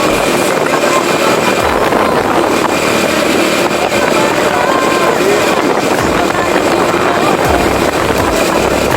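Motorcycle on the move: a steady rush of wind over the microphone with the engine running underneath.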